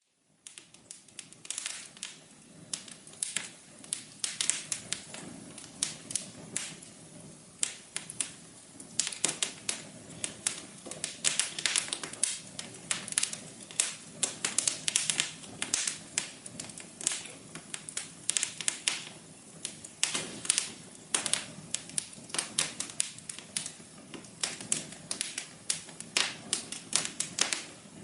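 Wood fire in a fireplace crackling: dense, irregular sharp pops and snaps over a soft hiss, starting abruptly after silence.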